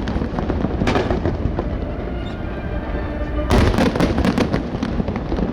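Aerial fireworks going off over a steady low rumble. There is a run of sharp crackles about a second in and a denser volley of crackling about three and a half seconds in.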